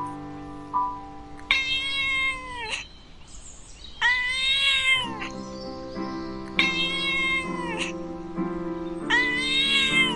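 A cat meowing four times, each meow about a second long and rising then falling in pitch, over background music.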